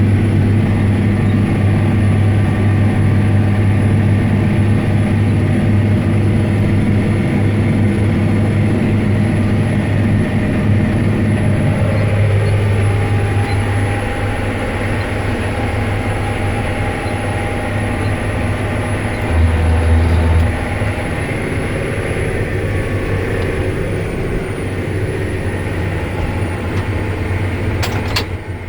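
John Deere 9530 tractor's diesel engine running steadily under load, pulling a disc, with a strong low drone. The lower hum thins out about twelve seconds in, and there is a brief louder swell near twenty seconds.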